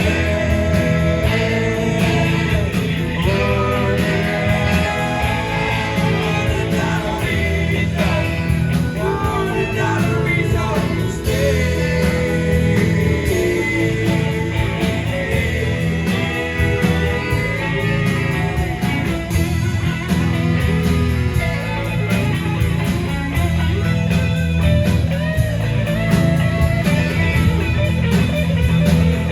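Live rock band playing, a lead guitar line over bass and drums, between sung verses.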